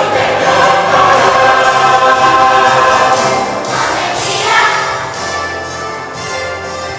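Church choir singing a Christmas cantata song with instrumental accompaniment.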